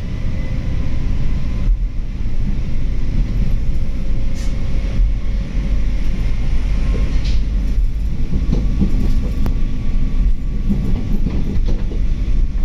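Steady low rumble inside a diesel railcar as it pulls out of a station and runs on, with engine and wheel-on-rail noise together.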